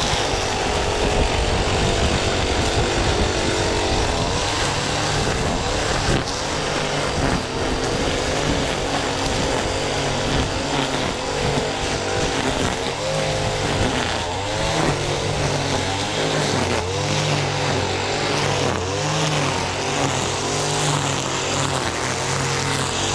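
Stihl FS 94 R two-stroke string trimmer running and cutting. Its engine speed rises and falls again and again as the throttle is worked.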